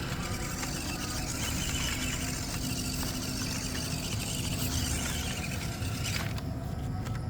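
Electric motor and gears of an MN99S D90 RC crawler whirring as it drives, stopping about six seconds in.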